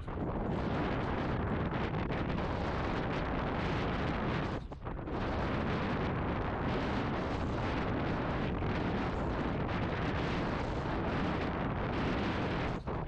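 Heavy wind buffeting the camera microphone: a dense, steady rush that drops away briefly about five seconds in and again near the end.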